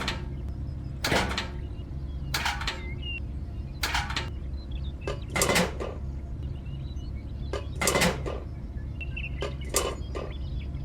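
A series of separate knocks and clatters, some with a short ring, over a steady low hum.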